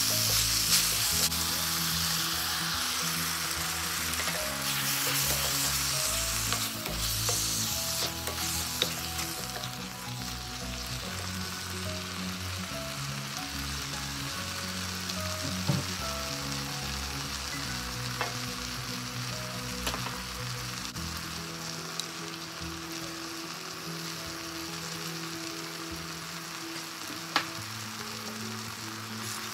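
Moringa leaves and chopped vegetables sizzling as they fry in an open stainless steel wok, stirred with a wooden spatula at the start. The sizzle eases a little after about ten seconds, and there are a few sharp clicks.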